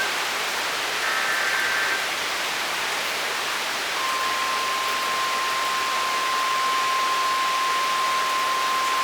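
Torrential rain pouring steadily. About four seconds in, a single steady high beep near 1 kHz starts and holds, matching a NOAA weather radio's 1050 Hz warning alert tone. Briefer, fainter higher tones sound about a second in.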